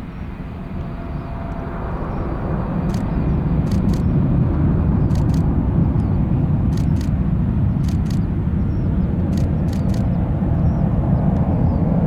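Boeing 777-200ER's twin turbofan engines at takeoff thrust: a deep, broad rumble that grows louder over the first few seconds and then holds steady.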